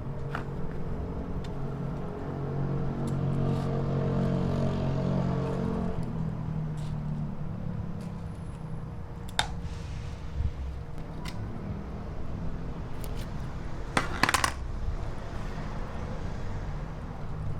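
A low engine-like hum that swells and then fades over the first several seconds, over a steady rumble, with scattered sharp clicks and clinks; the loudest is a quick cluster of clicks about fourteen seconds in.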